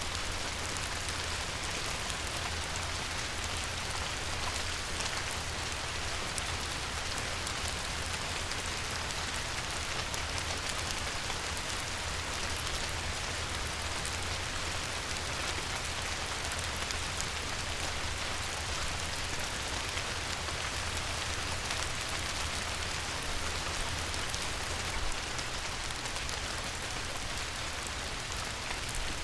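Light rain falling on a river, a steady patter of countless small drops, with a low steady rumble underneath.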